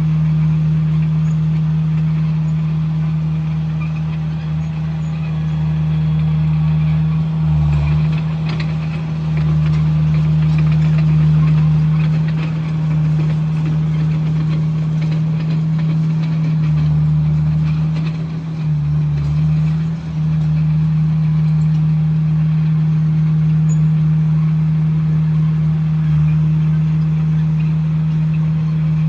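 Komatsu bulldozer's diesel engine running steadily under work, with the engine note shifting briefly about a quarter of the way in and again around two-thirds of the way through.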